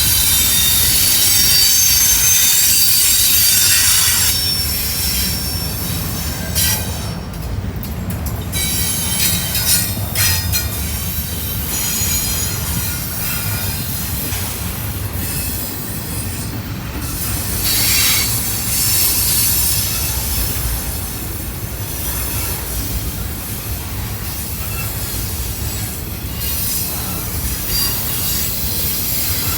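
Intermodal freight train cars rolling past, their steel wheels squealing in thin high tones over a steady low rumble.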